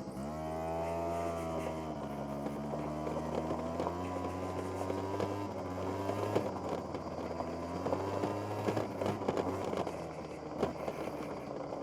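SYM Jet2 50 two-stroke scooter engine revving up at the start, then running at a fairly steady, gently wavering speed.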